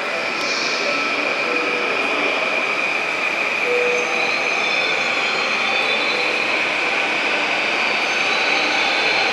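Train running on rails with a steady high-pitched wheel squeal over the rolling noise, growing slightly louder.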